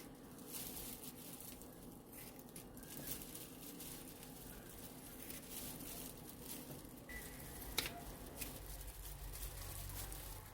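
Faint, soft handling noises, light squishy and pattering sounds with scattered small clicks, and one sharper click about eight seconds in.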